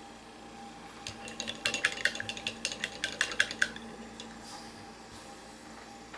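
A paintbrush rattled and clinked against a glass rinse jar: a quick run of light, ringing clinks lasting about two and a half seconds.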